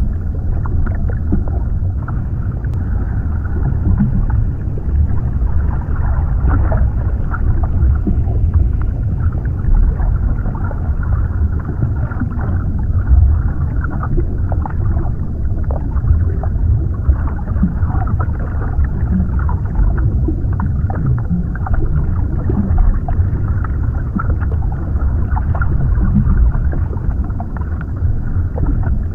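Underwater ambience: a steady low rumble of water, with many short bubbling sounds scattered over it.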